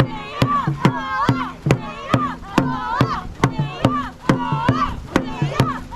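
Dragon boat drum beaten at a steady race pace, about two and a half strikes a second, with voices shouting in time between the beats.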